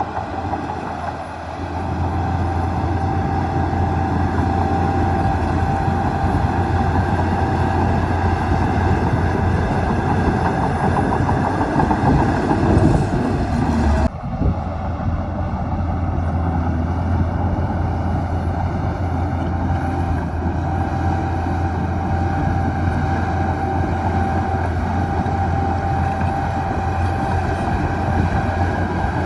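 Heavy diesel earthmoving machinery running steadily: a deep engine drone with a steady higher whine over it. The sound breaks off and resumes abruptly about halfway through.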